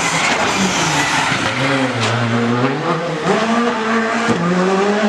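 Rally car engine revving hard, its pitch dropping and climbing again several times as the driver lifts off, shifts and gets back on the throttle.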